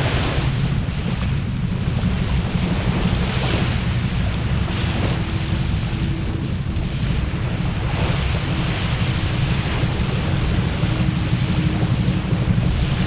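Campfire burning with a steady low rumble of flames and occasional sharp crackles. A constant high-pitched whine sits over it throughout.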